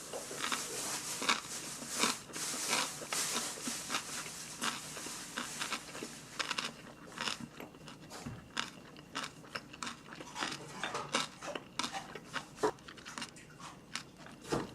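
A person chewing crunchy kimchi, a run of crisp crunches and mouth sounds that is dense at first and grows sparser after about halfway.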